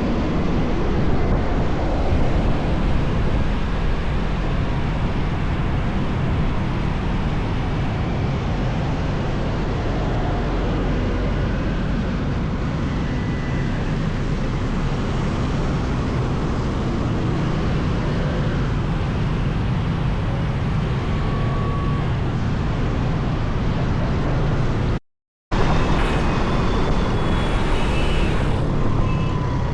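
Steady drone of a moving motorbike in road traffic: engine, tyre and wind noise. A few faint short tones like distant horns sound near the end, and the audio drops out completely for a moment about 25 seconds in.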